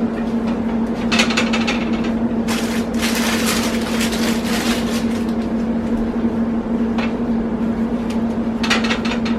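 Pita bread and chicken sizzling on a hot grill pan, the hiss swelling and easing several times, over a steady hum.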